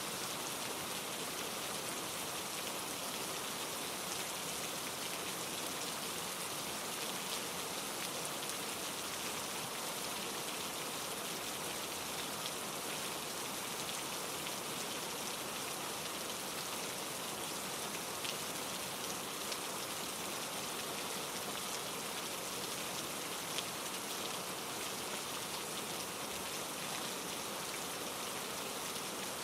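Steady rain falling on leaves and ground, mixed with the rush of a mountain stream tumbling over rocks. The hiss is even throughout, with a few louder drops standing out.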